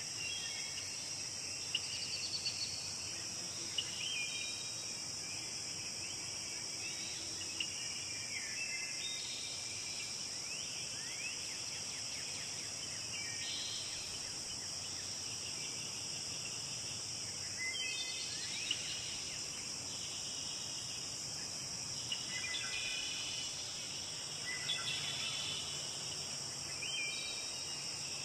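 A steady high insect trill, like crickets, with songbirds singing short chirps and sweeping notes again and again over it. A forest stream runs faintly beneath.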